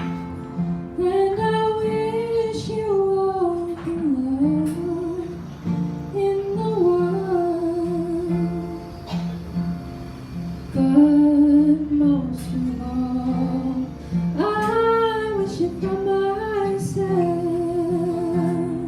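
A woman singing a slow ballad over a strummed acoustic guitar, in several long held phrases with vibrato.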